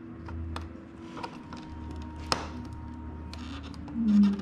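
Small clicks and taps of hands handling electrical wires and a control panel, with one sharper click a little over two seconds in.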